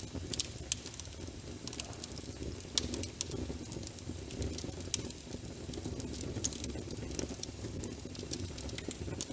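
Wood fire crackling with irregular sharp pops over a steady patter of rain on a window.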